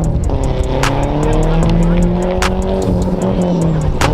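A drift car's engine held at high revs, its pitch wavering slightly up and down over several seconds, with a few sharp cracks through it.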